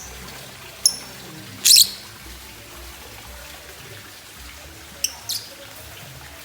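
Lovebird giving short, shrill chirps: one about a second in, a longer one just after, and two close together near the end, over a steady background hiss.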